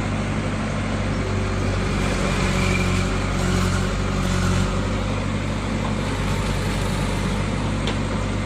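Heavy diesel engine running, picking up in speed and load for a few seconds from about a second in, then settling back to a steady run.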